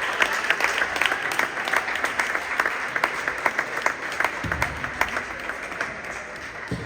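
Spectators clapping and applauding, many quick claps together that slowly die away toward the end, with a dull thump about four and a half seconds in.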